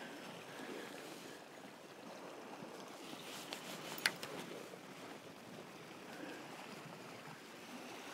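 Steady, faint wash of sea and wind at a rocky shore, with one sharp click about four seconds in.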